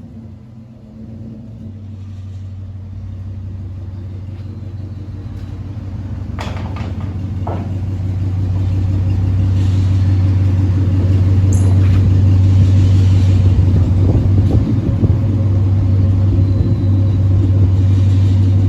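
Exhaust of a 2006 Dodge Charger SRT8's 6.1-litre Hemi V8 running with a steady deep rumble, growing louder over the first ten seconds and then holding. A couple of short clicks come about six and seven seconds in.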